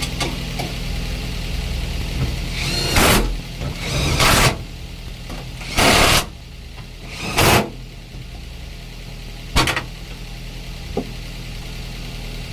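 Daihatsu Gran Max 1.3-litre four-cylinder engine idling steadily after an overhaul, with a few short, loud hissing noises over it.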